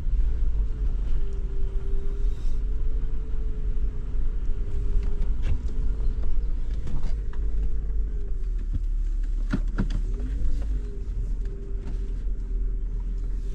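Road noise inside a moving vehicle's cabin: a steady low rumble with a hum that wavers slightly in pitch, and a few brief ticks a little past the middle.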